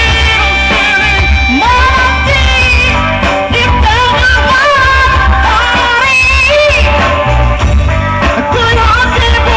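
Amateur band playing a song live, with drums, bass and a pitch-bending melody line over it, loud and continuous.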